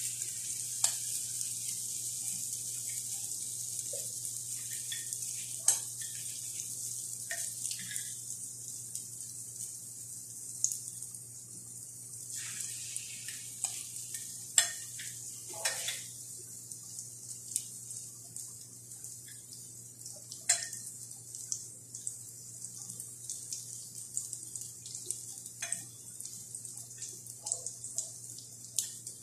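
Cabbage-and-egg fritters frying in oil in a nonstick grill pan: a steady high sizzle with scattered crackles and pops.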